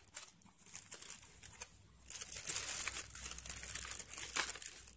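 Plastic packaging crinkling and rustling in irregular bursts as hands handle and unwrap small bagged accessories, with a few sharper crackles.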